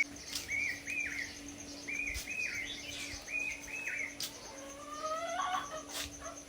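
Birds calling: one bird repeats short arched notes in quick pairs over and over, and a few rising calls come about five seconds in.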